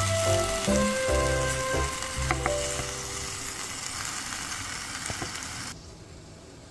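Beef cubes with potato and onion sizzling as they brown in a stainless steel pot, stirred with a wooden spatula that knocks against the pot a few times. Background music plays over the first few seconds, and the sizzling cuts off suddenly about five and a half seconds in.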